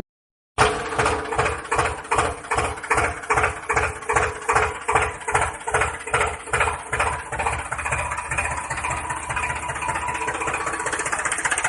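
Tractor engine running after a brief silence, with an even chugging of about three beats a second that becomes a faster, steadier run in the second half before cutting off abruptly.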